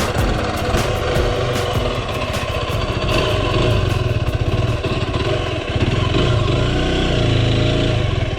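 Derbi Terra 125's single-cylinder engine running under way, a fast steady pulse. In the last few seconds its note rises and falls as the revs change.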